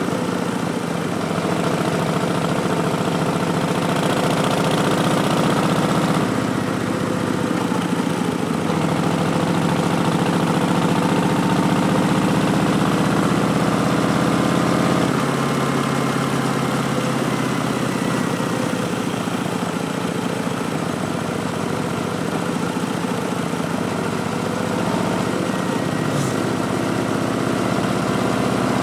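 2019 Harley-Davidson Street Bob's Milwaukee-Eight 107 V-twin running through Vance & Hines Twin Slash slip-on mufflers with an Arlen Ness Big Sucker intake. The engine note changes pitch about six seconds in and again about halfway through.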